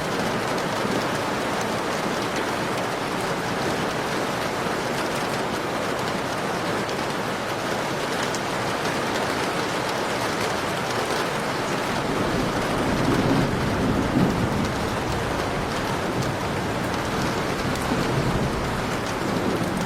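Heavy rain pouring steadily, with a low roll of thunder swelling a little past halfway and a smaller rumble near the end.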